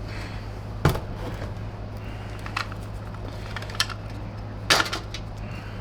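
A few light clicks and knocks of plastic vacuum parts being handled and pulled apart, the loudest about a second in and near the end, over a steady low hum.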